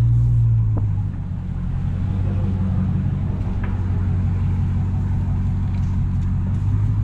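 Dodge Hellcat's supercharged 6.2-litre HEMI V8 running at low speed with a deep, steady rumble, a little louder for about the first second.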